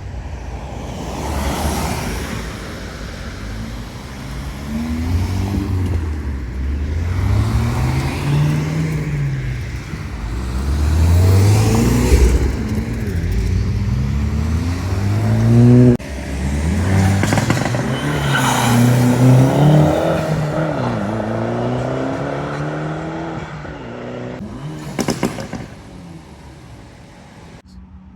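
Modified cars pulling away one after another, engines revving up and dropping back several times as they accelerate and shift gears. One car ends its rise with a sudden cutoff about 16 seconds in, and there is a short sharp crack about 25 seconds in.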